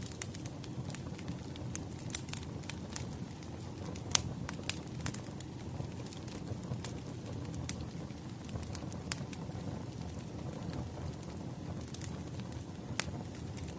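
Wood fire crackling: irregular sharp pops and snaps over a steady low rumble of burning logs, with one louder pop about four seconds in.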